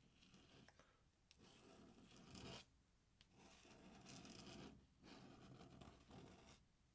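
Faint scratching of an ink pen drawing on paper: a run of strokes each about a second long, with short pauses between them.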